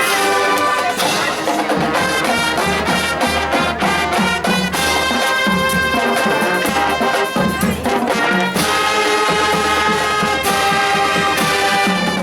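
High school marching band playing a brass-led tune, with trumpets and trombones carrying the melody over drums.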